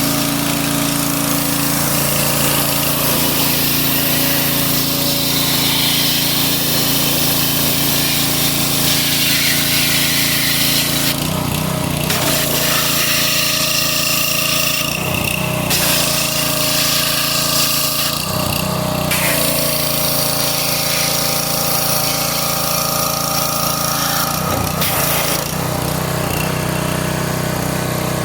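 A motor-driven machine, such as a power tool or small engine, running steadily with a hiss over its drone. Its note changes briefly four times, as if under changing load.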